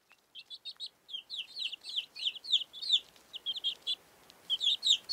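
Small birds chirping: quick runs of short, high, downward-sliding chirps, busiest in the middle.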